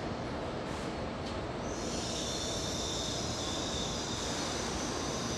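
Shinkansen platform noise: a steady rumble and hum from the bullet train alongside. About two seconds in, a high-pitched squeal joins and holds.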